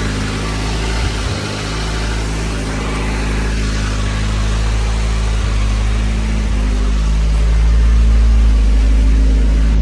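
Nissan 240SX's KA24DET turbocharged four-cylinder engine running steadily on its first start after the build, getting a little louder about two-thirds of the way in.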